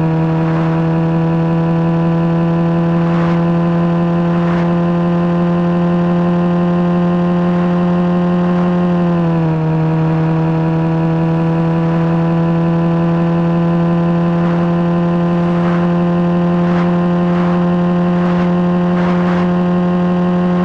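A vehicle's engine exhaust held at a steady, fairly high pitch, one constant drone that dips slightly about nine and a half seconds in and then creeps back up, with faint ticks here and there.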